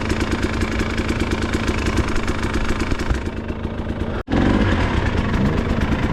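Dirt bike engine idling with an even, steady pulse. The sound breaks off for an instant about four seconds in.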